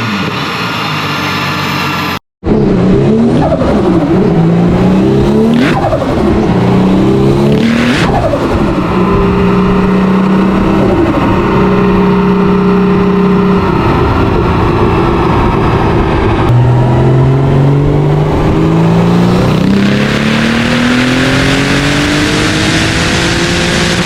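High-performance car engine being run on a chassis dyno. After a brief cut-out near the start, the revs swing up and down and then hold at a few steady steps. From about two-thirds of the way in, the engine pulls with its pitch climbing steadily to the end.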